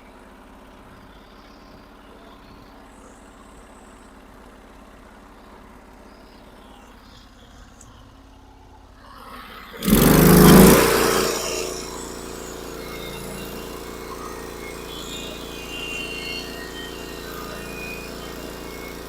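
Sawmill engine running at a low steady idle, then about ten seconds in it throttles up with a sudden loud surge and rising pitch, settling into a steady, louder run at working speed for the next cut.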